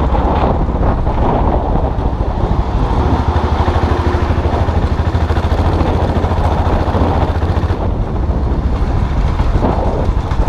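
Custom classic motorcycle engine running steadily while riding, with a low, even pulsing exhaust note.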